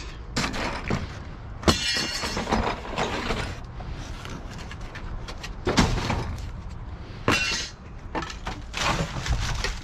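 Scrap being rummaged through and tossed around in a dumpster: irregular clanks and clatter of metal and other debris. There is a ringing, rattling crash about two seconds in and another sharp crash a little past seven seconds.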